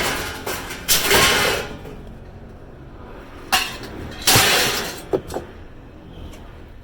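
Pieces of scrap metal thrown onto a pile, landing with several loud clanking crashes, the biggest about a second in and again about four seconds in.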